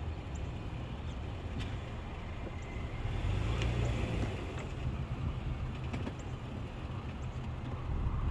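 Car's low rumble with several sharp pops, the popping noise the car makes when running over a curb.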